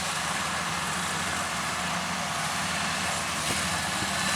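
Kubota DC70 combine harvester running steadily while cutting rice: a constant diesel engine hum under the even hiss of its cutting and threshing machinery.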